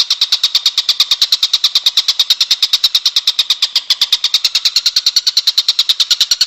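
Songbird masteran recording: a high-pitched chirp repeated rapidly and evenly, about ten notes a second, without a break.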